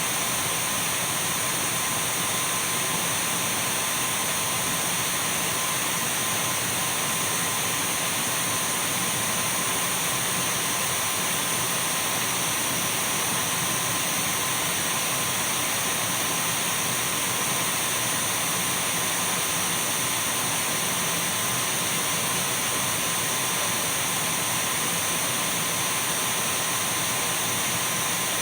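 Dyson V12 cordless stick vacuum cleaner running steadily: an even rush of air with a thin, steady high whine over it, holding the same pitch and level throughout.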